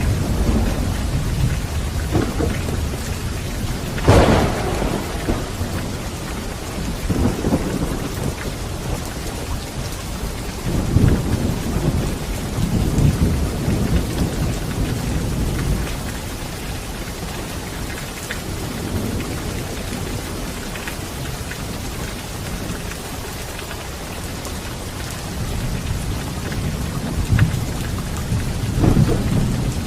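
Steady rain falling, with thunder rumbling again and again. There is a sharper crack about four seconds in, and a calmer stretch past the middle before the rumbling builds again near the end.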